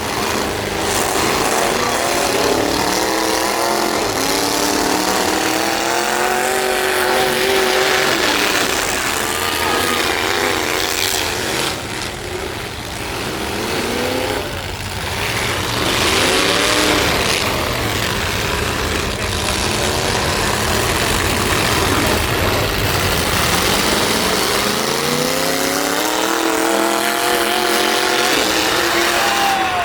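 Big-truck engines in a demolition derby running hard and revving, their pitch climbing and dropping again and again over a dense wash of engine and exhaust noise.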